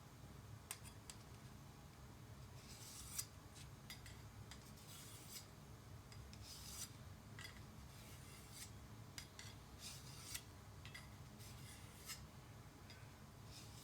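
Faint rasping strokes of a steel knife blade drawn across a fine DMT diamond sharpening plate, one stroke every second or two.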